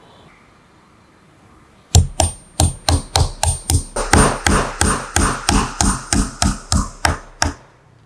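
A quick run of about twenty hammer blows, roughly three or four a second. The blows start about two seconds in and stop shortly before the end.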